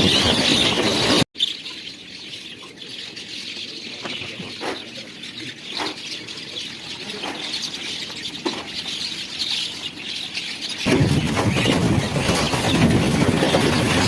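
A flock of birds chattering and calling, with short sharp notes scattered through. Loud, steady rushing noise covers the sound before an abrupt cut about a second in, and comes back near the end.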